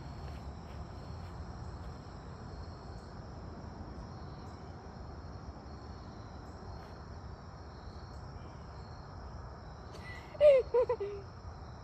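Steady high-pitched insect chorus, a continuous shrill trill from the pond-side vegetation. About ten seconds in, a short loud pitched call with bending tones cuts across it.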